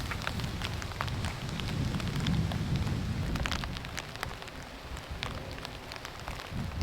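Hard rain with many sharp drop hits, and strong wind gusting on the microphone in low rumbling swells that ease off after a few seconds.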